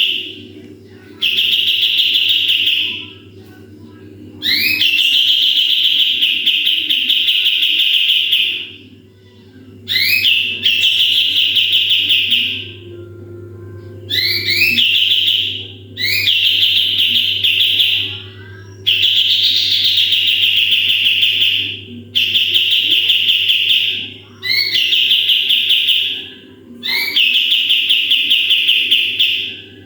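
Kapas tembak songbird singing its rapid 'tembakan' song: about nine phrases, each opening with a couple of quick rising notes and running into a fast, high trill lasting a few seconds, with short pauses between. A steady low hum sits underneath.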